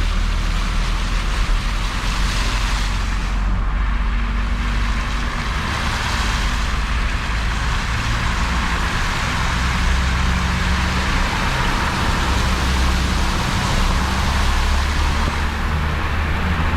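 A motor vehicle's engine running under a steady rushing noise, the engine's low note shifting a little now and then.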